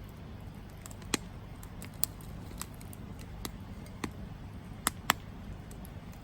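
Campfire crackling: burning wood gives off sharp, single pops, about seven of them spread irregularly, two in quick succession past the middle, over a low steady rumble.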